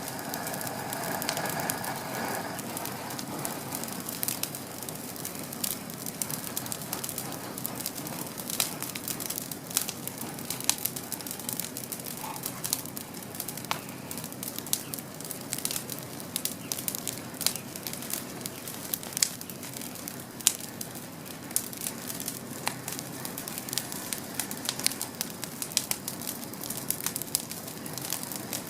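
Wood campfire crackling, with irregular sharp snaps over a steady low hiss.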